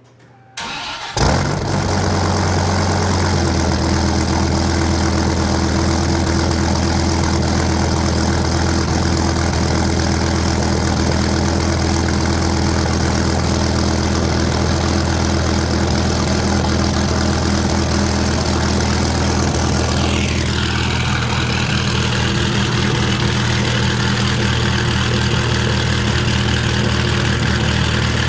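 1997 Dodge Viper GTS's 8.0-litre V10 cold-started: the starter cranks briefly, the engine catches about a second in with a short rise in revs, then settles into a steady cold idle.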